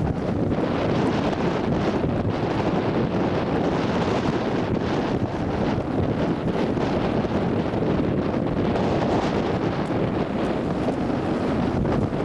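Wind blowing across the microphone, a steady noisy rush without a break.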